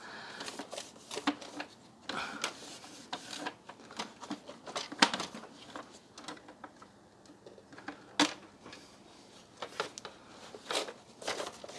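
Plastic parts of a Dyson DC33 vacuum cleaner being handled and wiped down with a damp cloth: scattered clicks and knocks, with soft rubbing between them. The sharpest clicks come about five and eight seconds in.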